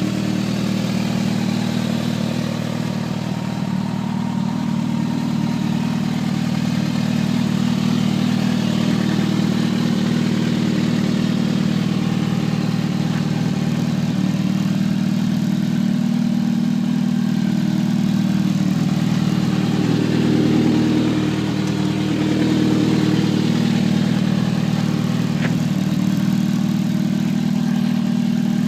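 2011 Kawasaki ZX-6R's 599 cc inline-four idling steadily through an aftermarket M4 GP exhaust, with a slight swell in the engine note about two-thirds of the way through.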